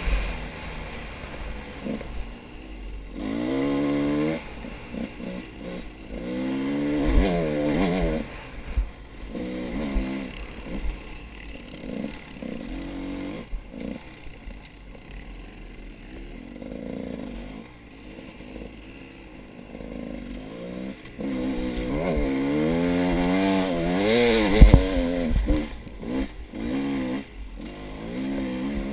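A small engine, such as a dirt bike or chainsaw, revving up and down again and again. There is one loud thump about three-quarters of the way through.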